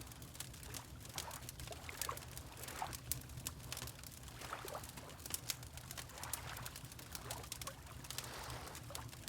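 Wood fire crackling with frequent small pops, over water lapping in gentle swells and a steady low rumble.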